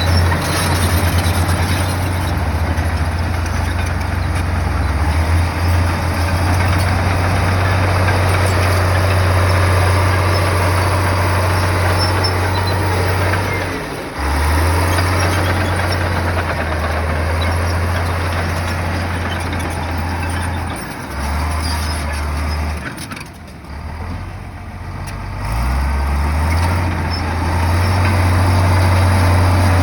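Heavy bulldozer diesel engine running under load, its low drone dropping away briefly several times in the second half and picking up again.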